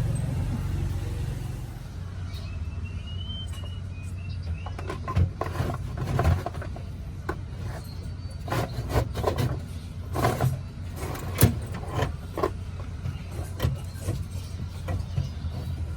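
Scattered metallic clicks, clinks and knocks of hand tools at irregular intervals while a new radiator is being fitted into a Nissan Urvan van's engine bay, over a steady low hum.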